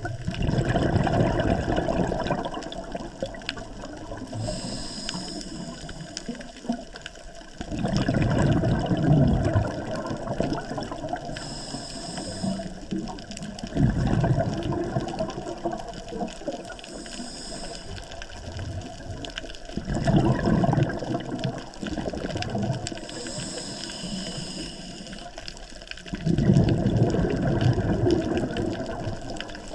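Scuba diver breathing through a regulator underwater. Exhaled bubbles gush out in bursts about every six seconds, with a faint high hiss from each inhalation in between.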